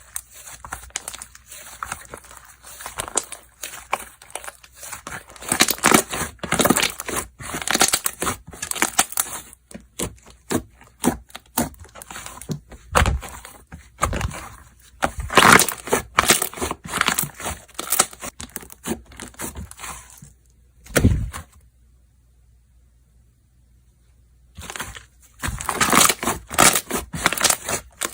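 Slime being squeezed, stretched and pressed by hand, giving dense runs of crackling, clicking and popping. It stops for about three seconds near the end, then starts again.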